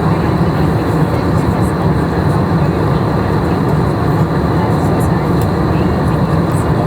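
Steady rumble and rush of jet engines and airflow heard from inside an airliner cabin, even and unbroken throughout.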